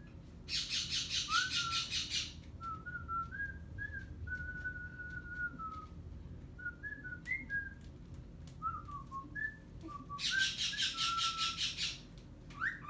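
A pet bird whistling a string of short, clear notes with quick upward and downward glides. About half a second in and again about ten seconds in, two bursts of harsh, rapid, buzzy chatter, each lasting a couple of seconds, stand out as the loudest parts.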